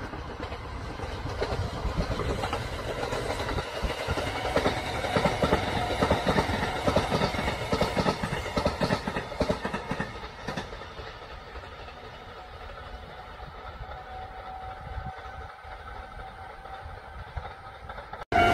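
Kintetsu Hinotori limited express passing at speed, its wheels clacking over the rail joints in a dense rhythm that swells to a peak and then fades to a softer rumble as the train draws away.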